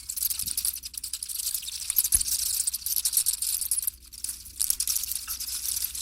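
Dense high-pitched crackling and hissing, made of many fine rapid clicks, which drops away briefly about four seconds in.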